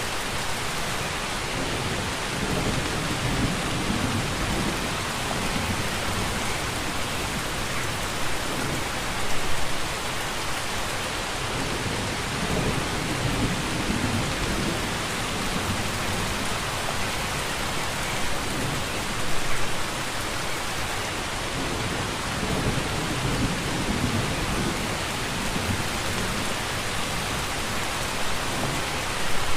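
Steady rain with low thunder rumbles swelling up every few seconds, and a brief louder surge about every ten seconds.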